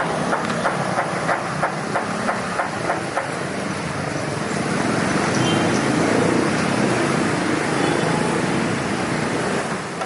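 A long train passing at speed, its wheels clicking over the rail joints about three times a second, giving way to a steady rumble about four seconds in.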